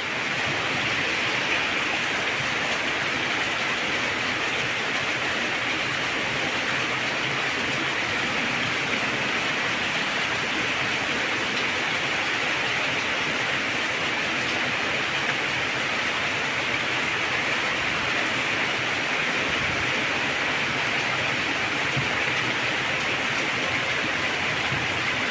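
Heavy rain falling steadily, an even unbroken hiss with no distinct drops or thunder standing out.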